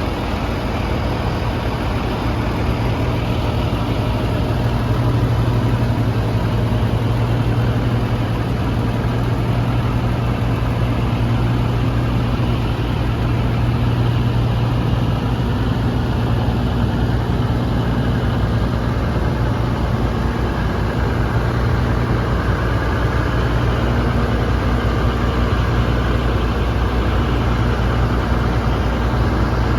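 Heavy truck's diesel engine running steadily at low, even revs, a constant low drone heard from inside the cab in slow traffic.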